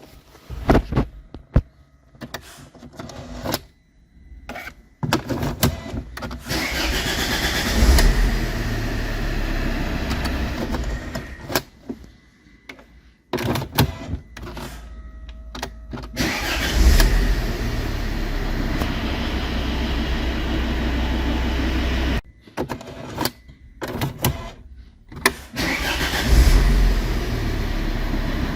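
Volvo XC70/V70 engine started three times: each time it catches with a brief loud flare, settles to a steady idle, and is switched off, with short clicks in between. The car starting is the sign that the steering-lock no-start fault is fixed.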